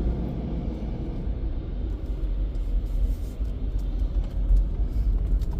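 Steady low rumble heard from inside a car in an express car wash tunnel, with a few faint ticks.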